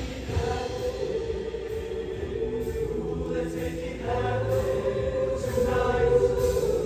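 Show choir singing sustained, held chords over band accompaniment, swelling louder toward the end.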